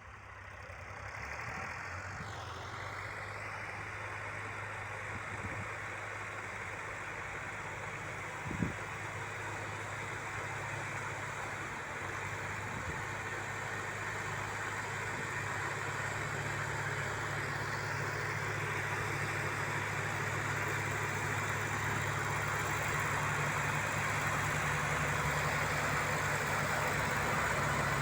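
Diesel tractor engines running steadily while working a heavy trolley load, slowly growing louder, with a single sharp knock about eight and a half seconds in.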